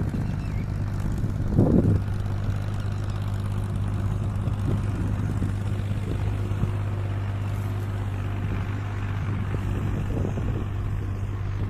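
Boat engine running steadily with a low, even hum, with a brief louder rush of noise just under two seconds in.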